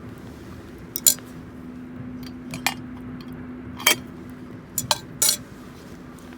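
Camp cookware and metal utensils clinking and knocking against each other, about seven sharp clinks scattered unevenly, some in quick pairs, over a steady low hum.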